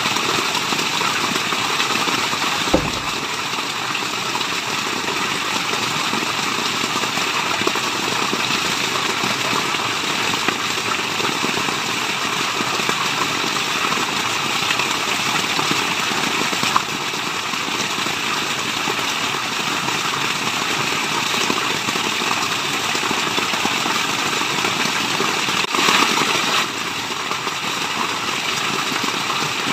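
Waterfall: steady rushing water making a constant, even hiss, with a brief low thump about three seconds in.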